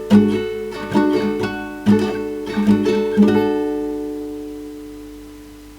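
Acoustic guitar played as accompaniment between sung lines: a run of plucked and strummed chords, the last one about three seconds in left to ring and die away.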